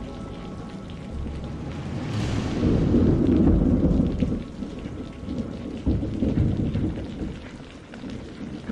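Steady rain with a thunderclap: a sharp crack about two seconds in that rolls into a long low rumble, then a second, shorter rumble about six seconds in.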